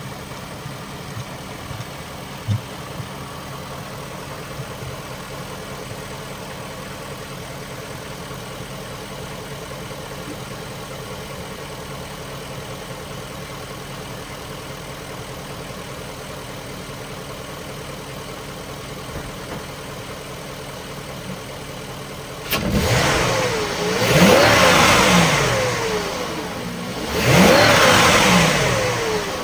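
2003 Range Rover HSE engine, heard from the engine bay, idling steadily while still warming up after a cold start. About 22 seconds in it is revved twice, the pitch rising and falling each time, with a third rev beginning at the very end.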